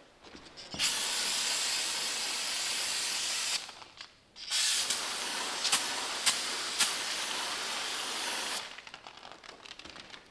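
Two long, steady hissing sprays, the first about three seconds and the second about four, with a few sharp clicks during the second.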